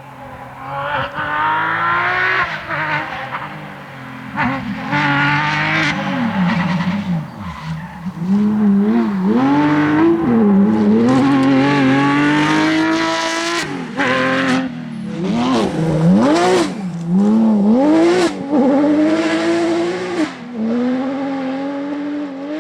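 Porsche 911 GT3 rally car's flat-six engine driven hard on a stage: revs climbing and dropping again and again through gear changes and throttle lifts, with some tyre squeal.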